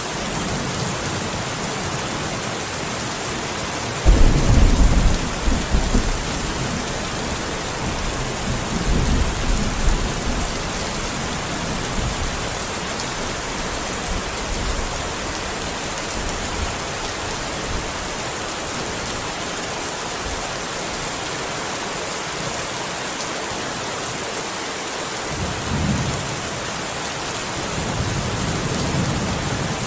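Steady rain falling, with thunder: a sudden rumble breaks in about four seconds in and rolls on for several seconds, with further rumbles near the middle and toward the end.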